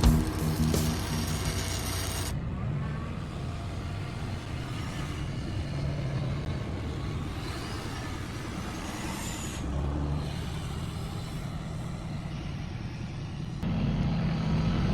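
Truck engines running in a string of short clips that cut abruptly about two, nine and a half and thirteen and a half seconds in, with a faint rising whine shortly before the middle cut.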